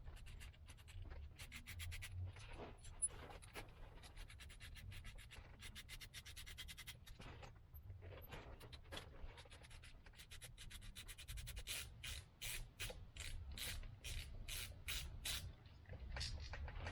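Ratchet wrench with an 8mm socket clicking in quick runs of strokes as the stator cover bolts are turned, with faint handling of the parts between runs.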